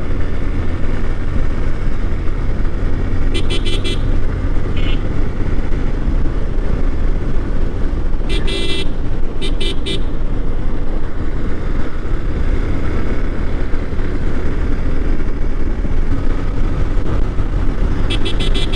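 Yamaha Fazer motorcycle riding at speed, with a steady engine drone and road and wind noise. A horn sounds in groups of quick short beeps: a few seconds in, twice around the middle, and again at the end.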